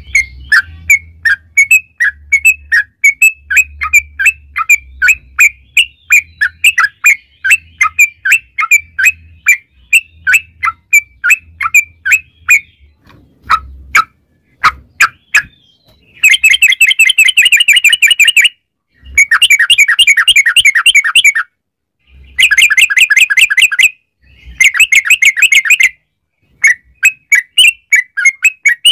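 Yellow-vented bulbul (trucukan) song: a run of short, clear chirps about twice a second, then four fast rolling trills of two to three seconds each, the long 'ropel' rolls used as a lure for other bulbuls.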